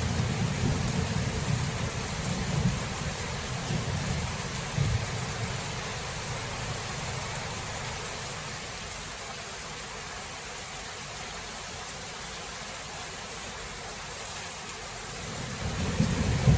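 Thunderstorm: steady heavy rain hissing, with rolling thunder rumbling at the start, fading away through the middle, then building again shortly before the end.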